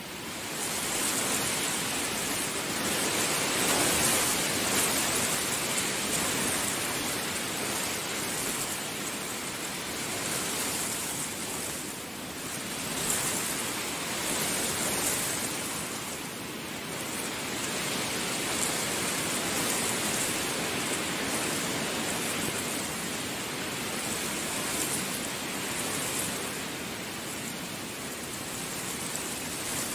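Heavy rain pouring steadily, a dense rushing hiss that swells about a second in and then holds with gentle rises and falls.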